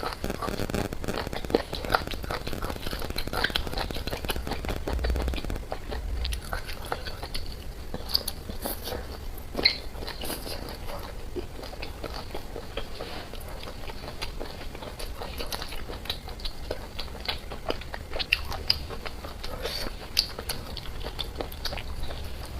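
A person eating close to the microphone: biting and chewing food, with many short, irregular crunchy clicks.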